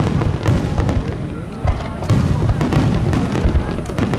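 Fireworks bursting in quick succession: deep booms and sharp cracks, one after another, with music playing alongside.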